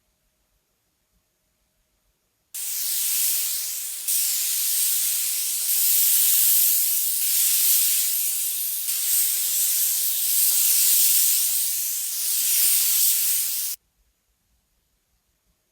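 A compressed-air tool hissing in long passes that swell and fade every second or two. It starts abruptly a couple of seconds in and cuts off suddenly about two seconds before the end.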